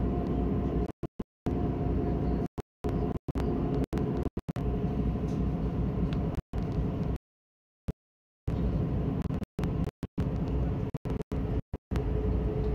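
Running noise of a Stadler FLIRT diesel multiple unit at speed, heard from inside the carriage: a steady rumble with a few faint held hums. The sound cuts out to dead silence again and again, for a moment each time and once for over a second, because of recording drop-outs.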